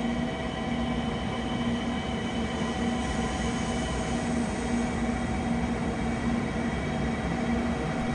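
Train noise: an even rumble with several steady hums held at a constant pitch throughout.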